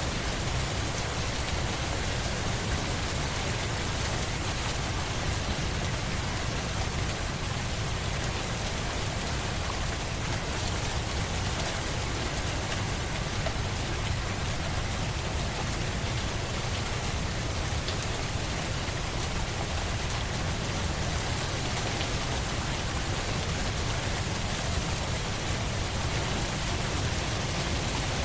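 Steady rain falling, a continuous even hiss of drops on surfaces with a low rumble underneath and no breaks.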